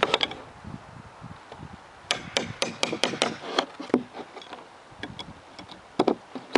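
Hammer blows on a nail puller and cedar boards as old galvanized nails are worked loose from a weathered picnic table. One knock at the start, then a quick run of about half a dozen blows a couple of seconds in, then single knocks near 4 and 6 seconds.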